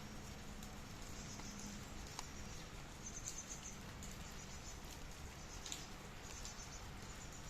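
Rain falling with a steady patter and now and then a single sharper drop. Short high chirps come and go over it several times.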